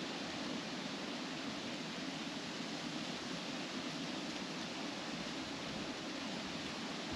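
Steady wind blowing through trees, the leaves rustling in an even, unbroken wash of noise.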